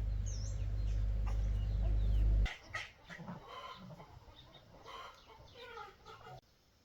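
Chickens clucking. A loud steady low rumble runs under the first half and stops abruptly. The clucking continues until the sound cuts off suddenly near the end.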